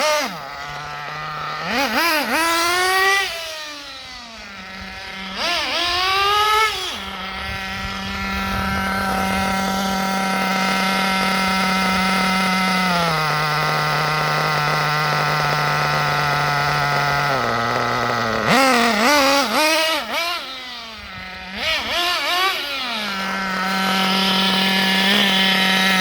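Kyosho RB 21 two-stroke nitro glow engine in an MP10 buggy, idling and blipped to quick revs several times, the note rising and falling with each blip. Between the blips the idle holds steady, stepping down in pitch twice, as the idle is tuned from its break-in setting.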